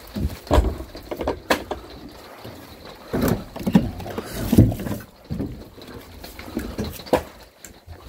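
Irregular knocks and dull thuds of split firewood logs being handled and set down against one another.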